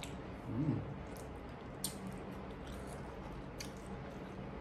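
Close-up eating sounds of burgers and fries being chewed: scattered wet mouth clicks and smacks, with a short hummed sound about half a second in.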